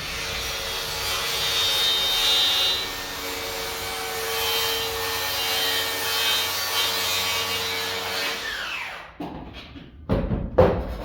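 Electric power saw cutting through lumber: the motor winds up, runs with a steady whine under load for about nine seconds, then winds down. A few sharp knocks of wood follow near the end.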